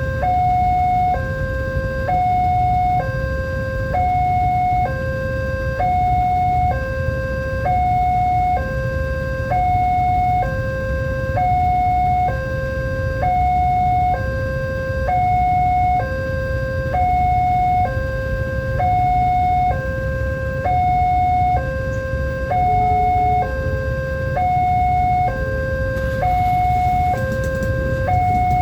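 Railway level-crossing warning alarm sounding a two-tone signal, a higher and a lower tone alternating about once a second, over a steady low rumble.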